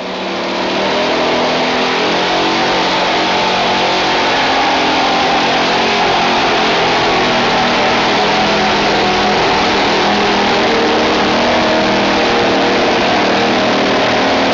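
Modified gas pulling truck's engine at full throttle under load, loud and steady, building up over the first second and then held.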